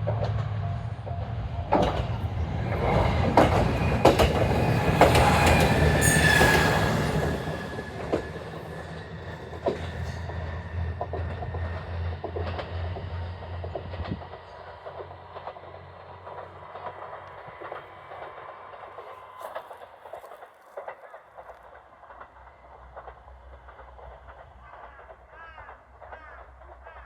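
KiHa 200 series diesel railcar passing close by: diesel engine running and wheels clicking over the rail joints, loudest a few seconds in, with a brief high wheel squeal. The train then fades away as it leaves.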